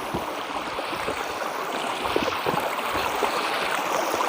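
Stream water rushing and gurgling steadily over rocks.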